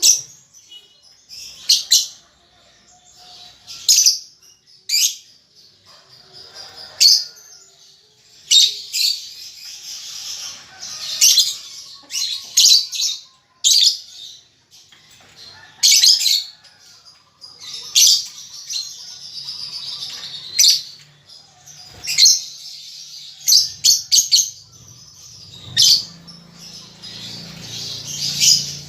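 Young lovebird calling: sharp, high-pitched chirps every second or two, with stretches of softer chatter in between. These are a juvenile's practice calls as it learns the rapid 'ngetik' and trilling 'ngekek' song.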